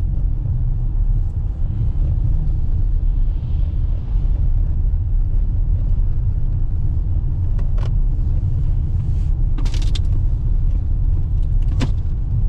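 Toyota RAV4 hybrid driving slowly on a snow-covered road: a steady low rumble of tyre and road noise heard inside the cabin, with a few short clicks in the second half.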